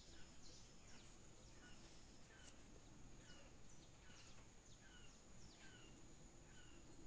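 Near silence with a bird calling faintly in the background: short falling chirps repeated a little more often than once a second, over a faint steady high whine.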